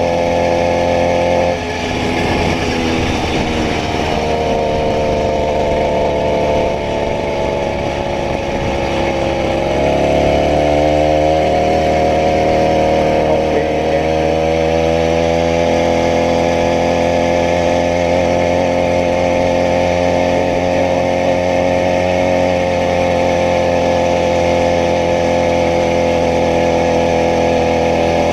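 80cc two-stroke bicycle-conversion engine running. Its pitch drops about two seconds in, climbs briefly near the middle and eases back, then holds steady.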